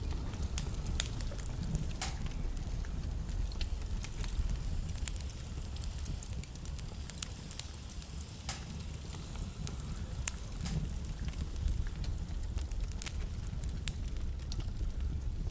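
Wood fire burning in a fireplace: a steady low rumble of the flames with frequent sharp crackles and pops of the burning logs, irregular and several a second.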